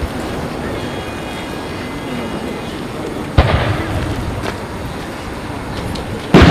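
Firework shells bursting overhead: two loud booms about three seconds apart, the second the louder, each with a rumbling tail, over a steady background of crowd noise.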